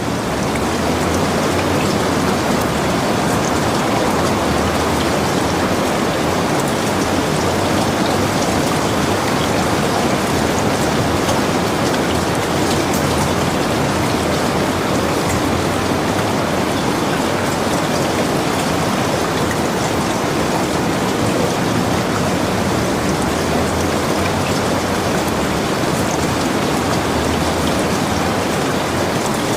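Steady rain falling: an even hiss flecked with the ticks of individual drops, unchanging throughout.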